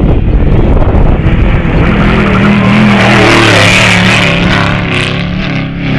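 Trophy Truck race truck engine running hard, loud, its pitch wavering as the throttle works, with a rush of noise that swells around the middle and eases off toward the end.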